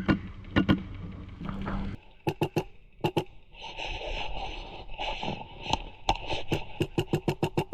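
Airsoft gunfire: short strings of sharp shots, then a faster run of about six shots a second near the end, with a rustling noise in between.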